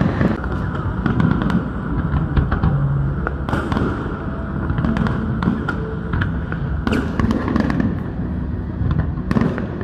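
Aerial fireworks bursting: irregular sharp bangs every second or so over a continuous low rumble of further explosions, with the heaviest bangs about three and a half, seven and nine and a half seconds in.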